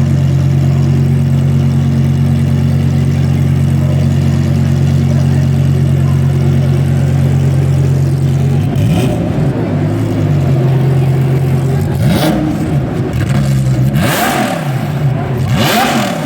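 A car engine idling steadily with an even hum. From about nine seconds in it is revved, its pitch rising and falling again and again, with sharper, louder revs in the last few seconds.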